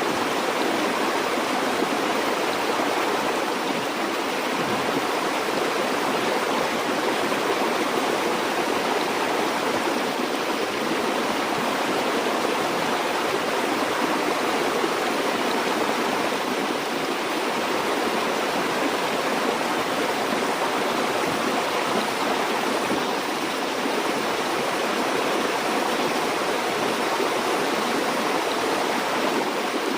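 Steady rushing and burbling of a river or stream flowing over rocks, even and unbroken, with no other sounds.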